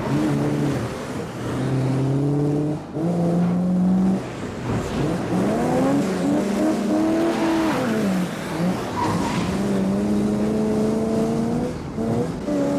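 Car engines revving hard in a high-speed chase, the pitch climbing and dropping as they run through the gears, with a long rise and fall about halfway through and some tire squeal.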